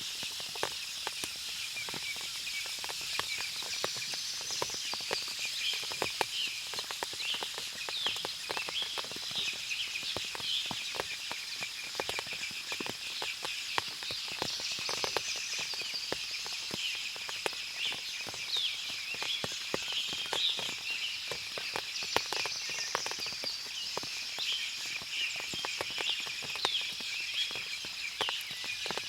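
Forest ambience after rain: water dripping from the leaves as many small irregular ticks, with birds chirping over a steady high-pitched drone. A louder warbling call comes three times.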